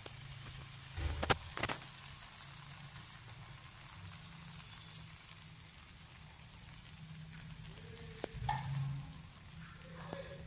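Stir-fried luffa, glass noodles and egg sizzling faintly in a wok, with a few sharp clicks about a second in and again near the end.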